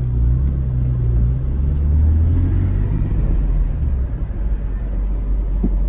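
A car engine running with a deep, steady rumble; its low drone shifts slightly about two seconds in.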